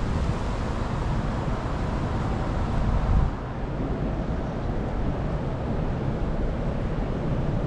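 Wind buffeting the microphone: a steady low rumble and hiss, a little stronger for the first three seconds before easing.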